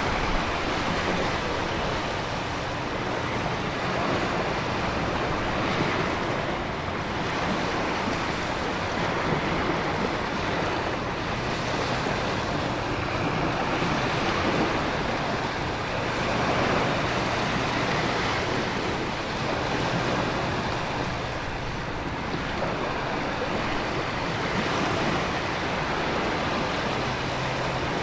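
Storm ambience of heavy rain, wind and ocean surf: a dense, steady rush that swells and eases gently every few seconds, with no thunder claps.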